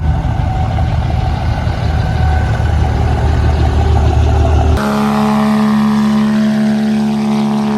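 Cummins turbo-diesel pickup running with a deep, heavy exhaust rumble. About two-thirds of the way in it cuts abruptly to a steadier, higher-pitched drone with a faint falling whistle.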